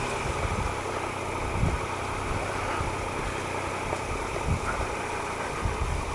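Triumph Explorer XCa's 1215cc three-cylinder engine running steadily at low revs as the motorcycle is ridden slowly over a muddy track, with irregular low rumbles from the bike and the ground.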